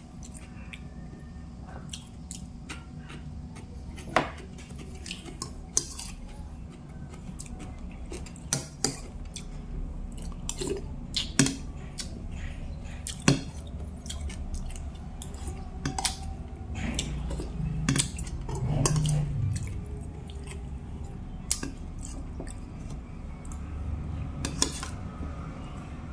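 Cutlery clinking and scraping against a plate while eating, in scattered sharp clicks every second or so, over a steady low hum.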